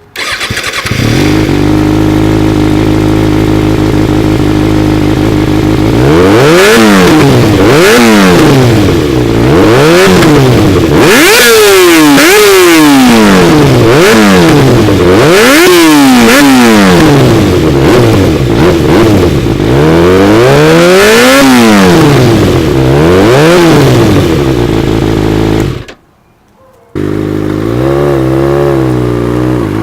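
A 2014 Kawasaki ZX-6R's inline-four engine running through an IXIL aftermarket exhaust. It idles steadily for several seconds, then is revved over and over in quick blips, each rising sharply and falling back. Near the end the sound cuts out for about a second, then returns with the engine running and climbing.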